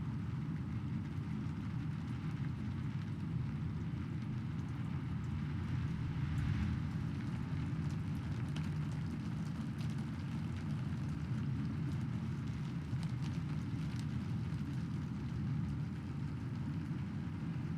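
Heavy rain falling steadily, with a deep low rumble beneath the hiss and scattered drop ticks. It swells briefly about six seconds in.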